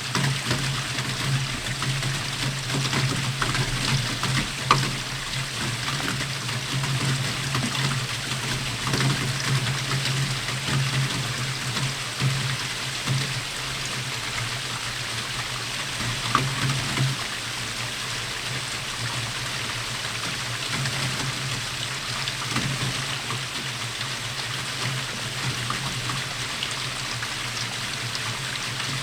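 Steady rainfall: a dense, even patter of drops with a few louder single drips standing out, over a low steady rumble that eases about two-thirds of the way through.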